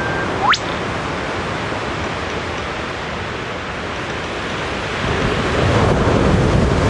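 Male eastern whipbird call: the end of a long, steady, drawn-out whistle, then about half a second in a single sharp whip-crack that sweeps steeply upward in pitch. Behind it runs a steady rushing noise of wind or surf, which grows louder near the end.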